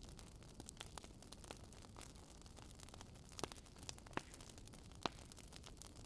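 Campfire crackling: a low steady hiss with scattered sharp pops and snaps, the loudest about five seconds in.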